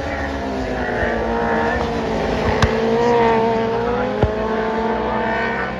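Racing superbike engines running at high revs, their pitch dipping and then climbing as the bikes pass, with a few sharp cracks.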